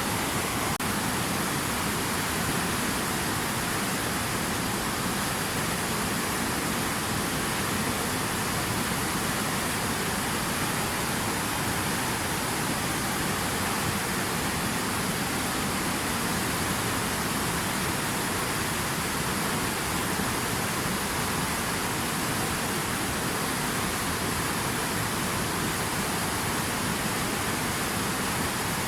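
Rushing water making a steady, even hiss with no breaks or splashes standing out.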